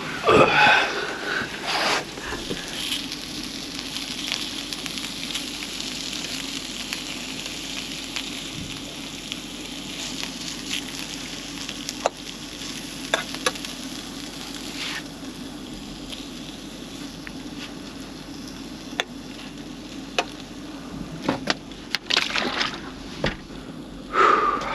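Food sizzling in a frying pan, the sizzle dying down about halfway through, with scattered clicks and louder clattering of cookware near the start and near the end, over a steady low hum.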